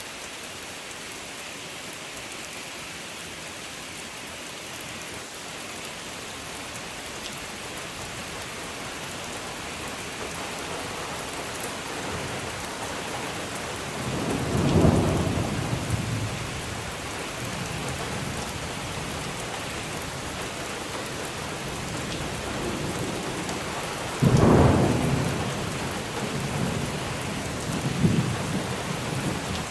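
Steady rain falling, slowly getting heavier, with rolls of thunder: a rumble about halfway through, a sudden louder clap about two-thirds of the way in, and another rumble near the end.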